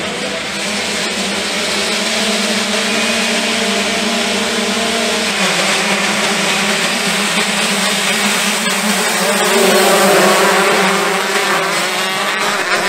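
Motocross bike engines revving up and down on the track, loudest a little past the middle.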